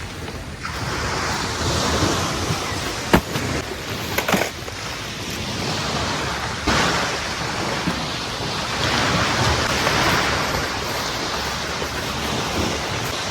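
Sea waves breaking and washing up a beach, a steady rush that swells and falls back every few seconds. Two sharp clicks sound a little before the middle.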